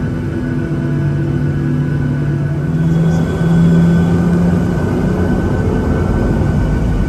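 Boeing 737-700's CFM56-7B jet engines running, heard from inside the cabin as a steady rumble with a droning hum. Just under three seconds in, the hum rises in pitch and the sound grows louder.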